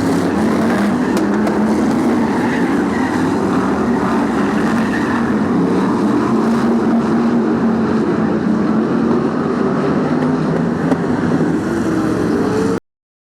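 Several BriSCA F1 stock car V8 engines running together, with one pitch rising near the end as an engine revs up. The sound cuts off suddenly shortly before the end.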